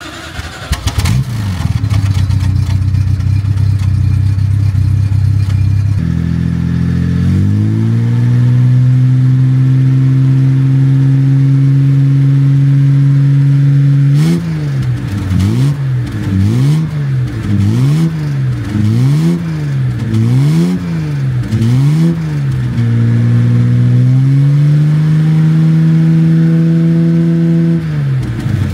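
A car engine running and being revved. Its pitch rises after about six seconds and holds, then it is blipped up and down about once a second for several seconds, rises again and falls away near the end.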